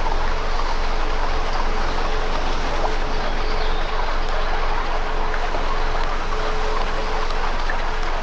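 Campfire burning: a steady rushing hiss with many small crackles and pops scattered through it.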